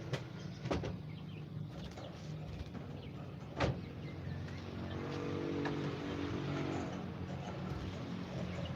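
A low, steady engine-like hum with three sharp clicks, two near the start and one about four seconds in, and faint bird calls.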